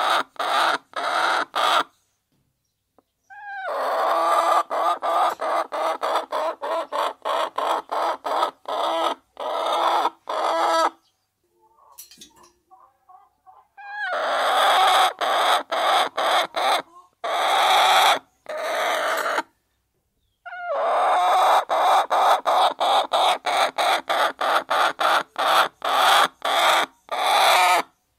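Hens clucking in long runs of rapid, evenly spaced notes, each run lasting several seconds and cutting off abruptly into silence: about two seconds in, around eleven seconds, and again near twenty seconds.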